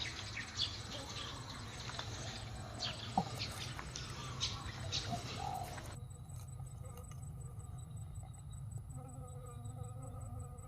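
Bird chirps and short calls with scattered clicks over a steady low hum. About six seconds in the sound changes abruptly to a fainter hum.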